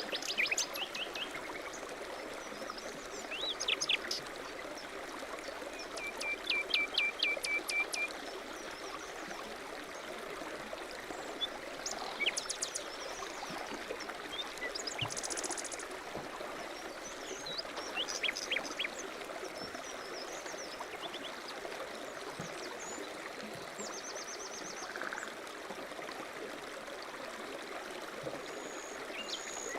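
A stream running steadily, with birds chirping over it: short calls and trills scattered throughout, including a quick run of about eight repeated notes about six seconds in.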